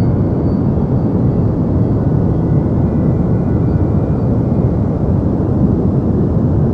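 Deep white noise for sleep: a steady, even rush of noise weighted toward the low end, heard as a dull rumbling hiss with no change.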